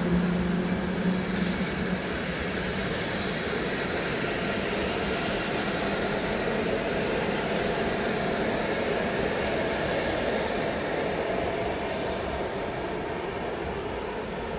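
Passenger train pulled by an electric locomotive moving away along the track: a hum fades out over the first couple of seconds, then the coaches' wheels roll steadily over the rails, slowly getting quieter.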